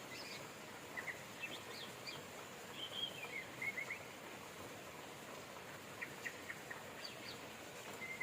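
Birds chirping and whistling in short phrases over a steady hiss of rain.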